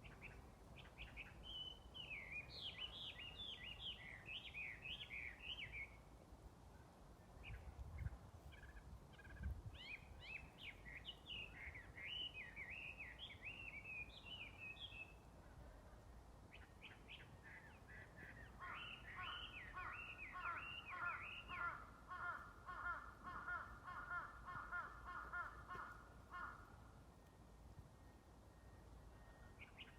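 Small songbird singing in phrases of quick, high, chirping notes, with pauses between them. In the second half a lower, evenly repeated series of calls runs for several seconds beneath the song.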